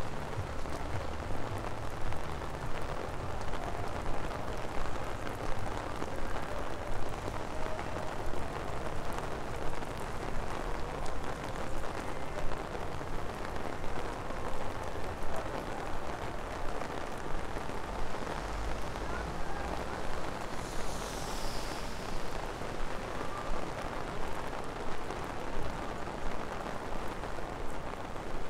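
Steady rain falling on wet city pavement, an even hiss throughout. A low rumble comes up about two-thirds of the way in, with a brief high swish just after.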